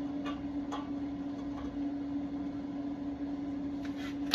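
A steady machine hum on one constant pitch, with a few faint ticks and one sharp click near the end.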